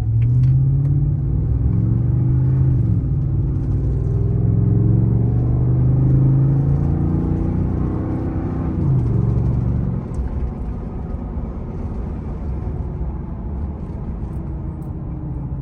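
Ford F-150's 5.0L Coyote V8 accelerating hard through a WWP straight-through cat-back exhaust that keeps the factory resonator, heard from inside the cab with the windows up. The deep engine note climbs, drops at upshifts about three and nine seconds in, then settles to a quieter cruise after about ten seconds.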